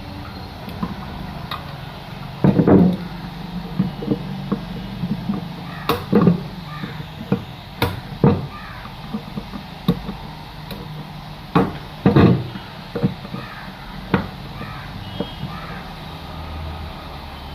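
Car audio amplifier being handled and opened up with tools on a workbench: irregular clicks and knocks with a few heavier thuds, the loudest about two and a half seconds in and again about twelve seconds in, over a steady low hum.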